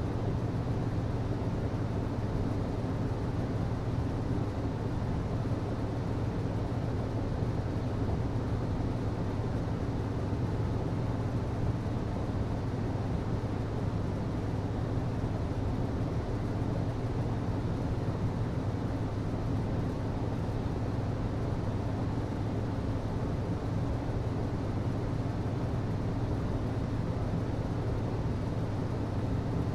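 HVAC system running, a steady unchanging drone with a low hum under a rush of noise.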